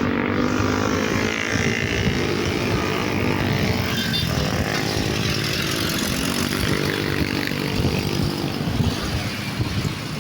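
Vehicle engine pulling hard, its pitch climbing through the first few seconds and again in the second half, over steady road noise.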